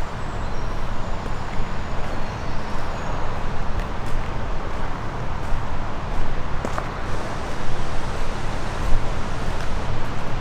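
A diesel engine idling steadily, a low, even rumble, with a few faint clicks over it.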